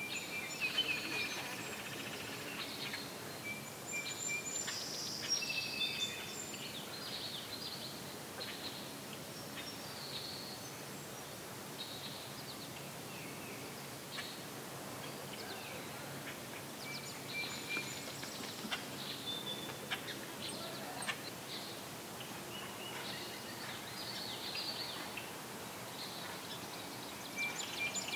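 Songbirds singing and calling: short whistled notes and trills come and go throughout, over a steady background hiss.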